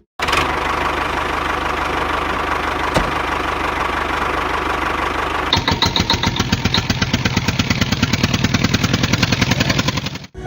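Small engine running on a homemade mini loader tractor. It runs steady at first, then, after a cut about halfway in, gives a fast, even putter.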